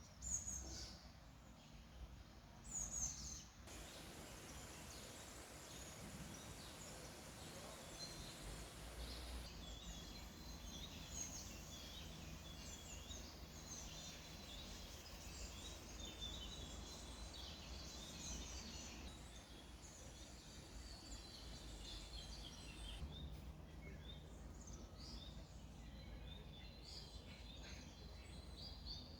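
Small birds chirping and singing over and over, with two louder calls in the first few seconds, above a faint steady low rush.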